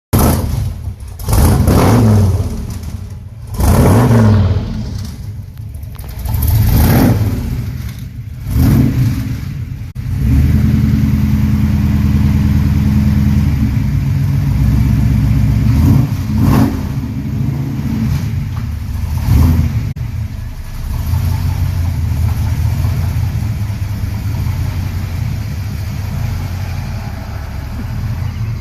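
Ford 460 big-block V8 exhaust through fenderwell-exit headers and a Magnaflow exhaust, revved about five times in quick blips. It then holds a higher, steady run for several seconds, takes two more blips, and settles back to a steady idle.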